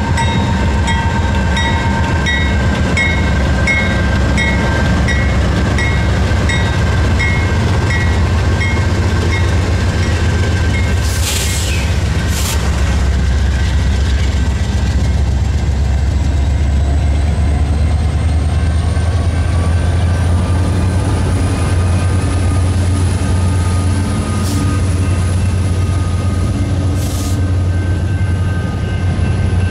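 A freight train passing close by, led by BNSF, KCS and Ferromex diesel locomotives and then a string of autorack cars, with a deep, steady engine and rail rumble. A bell dings repeatedly for about the first ten seconds, a couple of sharp clanks come around eleven to twelve seconds in, and a thin high whine rises and then holds through the second half.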